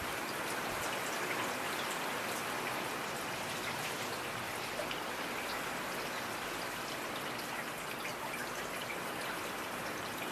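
Steady rain, with the close ticks of individual drops scattered through an even hiss of rainfall.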